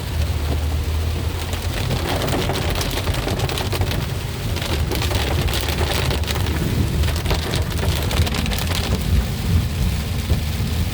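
Heavy rain pelting a moving car, heard from inside the cabin over a steady low road rumble, with tyres hissing on the flooded street. The rain is densest from about two seconds in until near the end.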